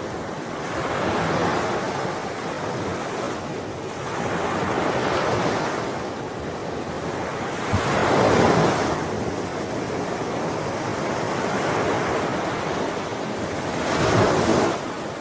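Ocean waves breaking and washing ashore, one swell of surf every three to four seconds. The loudest come about halfway through and near the end.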